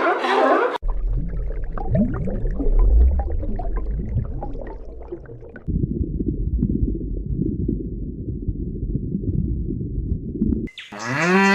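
Underwater sound: a low watery rumble and gurgling, with scattered short gliding calls in the first few seconds, then a steadier, denser low rumble. Near the end a loud animal call with a steady pitch starts.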